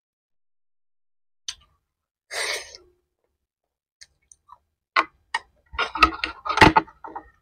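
Crunchy food chewed close to a microphone: a crisp bite about two seconds in, then scattered mouth clicks and a run of crunches that is loudest near the end.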